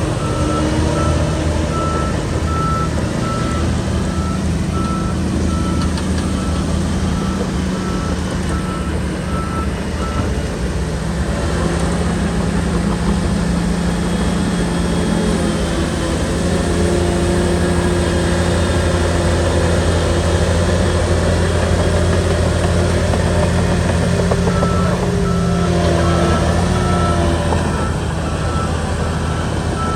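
Shantui bulldozer's diesel engine running steadily under work, with a reversing alarm beeping at an even pace for about the first ten seconds and again in the last five: the machine backing up.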